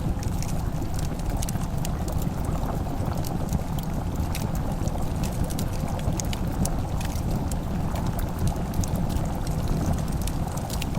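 Wood fire crackling in a fireplace: many small, irregular sharp pops and snaps over a steady low rumble.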